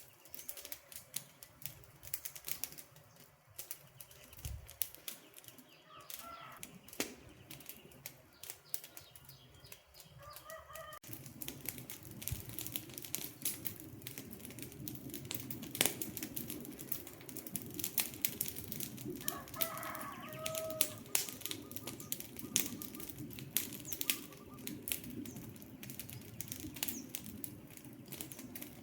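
Wood campfire crackling and popping with many sharp irregular snaps, joined about a third of the way in by a low steady rush of burning. A few short bird calls sound faintly over it.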